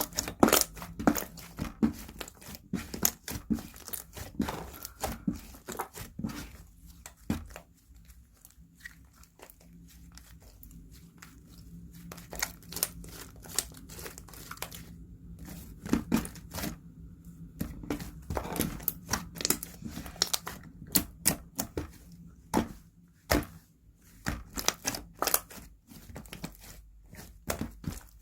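Hands pressing, folding and stretching slime, giving irregular sticky pops and crackles, quieter for a few seconds about eight to eleven seconds in.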